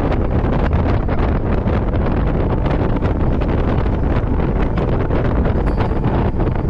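2018 Jeep JK Wrangler driving through deep fresh snow: a loud, steady rumble of engine, tyres and wind, with frequent small crackles.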